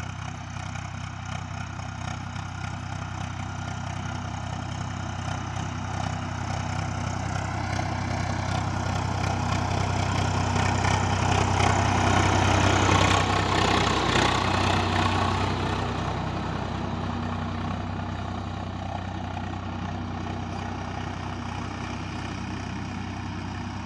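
Swaraj 744 XT tractor's diesel engine running steadily. It grows louder to a peak about halfway through, then fades again as the tractor passes by.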